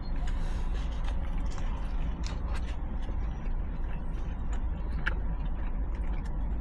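Steady low rumble inside a car cabin, with scattered small clicks and rustles over it.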